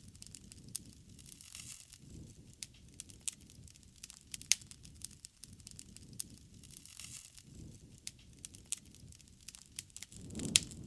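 Campfire crackling, with irregular sharp pops over a low, wavering rush of flames. The loudest pops come about four and a half seconds in and near the end.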